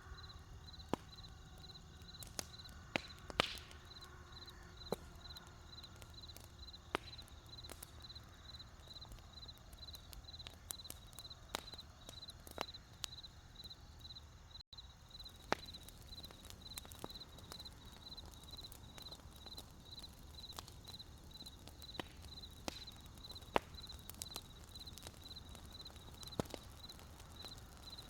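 Wood campfire crackling with sharp, irregular pops over a low steady hum of burning, while crickets chirp in a steady, evenly pulsed high trill. The sound cuts out for an instant about halfway through.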